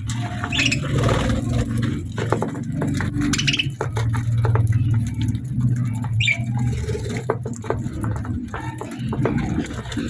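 Budgies pecking and nibbling at food with many small irregular clicks, and giving a few short chirps. A steady low hum runs underneath.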